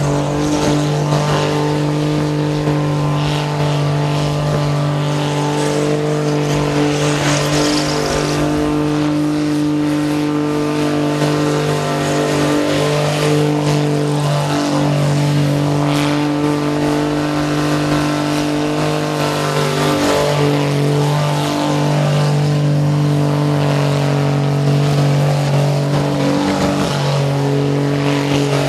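Twin-turbo V6 engine of an old Austin held at high, steady revs for a long stretch, with a few brief dips in pitch, over a constant hiss.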